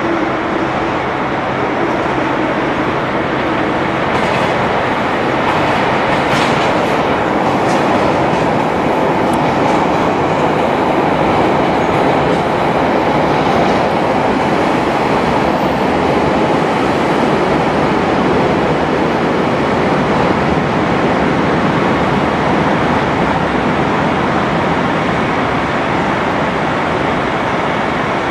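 Train moving through a station platform: a steady rumble of wheels and running gear on the rails, with a few brief high squeaks about six to eight seconds in.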